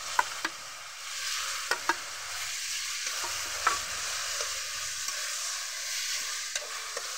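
Banana-flower and green-chilli paste sizzling in hot mustard oil in a kadai, stirred with a metal spatula. The spatula clinks and scrapes against the pan several times over the steady sizzle.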